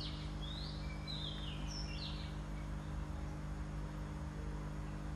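Small birds chirping in a quick string of short, sweeping calls during the first two seconds, over a steady low hum.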